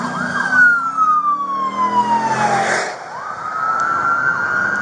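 Police car siren switching from a fast yelp to a slow wail: the tone falls for about three seconds, then rises again and holds high, with the car's engine running underneath.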